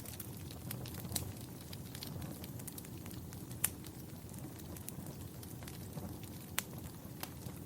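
Wood fire burning in a fireplace: a steady low rumble of flames with scattered sharp crackles and pops. The loudest pops come about a second in, near four seconds and past six and a half seconds.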